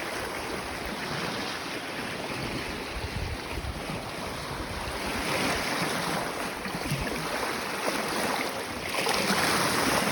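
Sea waves with whitecaps washing against a flat rock shelf, swelling louder about halfway and again near the end, with wind buffeting the microphone.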